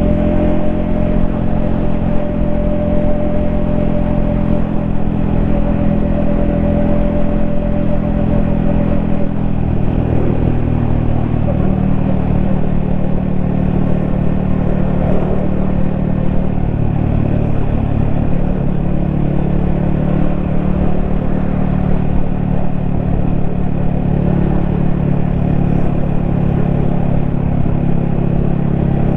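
Yamaha XSR155 motorcycle's single-cylinder engine running steadily under way. About ten seconds in, the engine note changes, then holds steady again.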